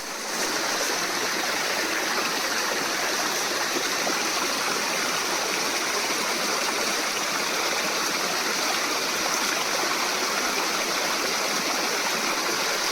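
Waterfall on a river: water pouring and rushing in a steady, unbroken wash.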